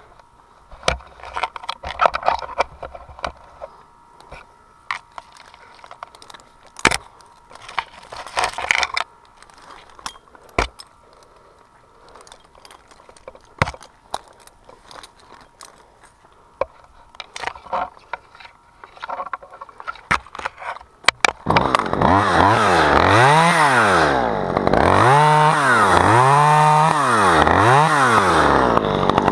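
Scattered clicks and knocks for about twenty seconds, then a chainsaw starts and is revved up and down about four times.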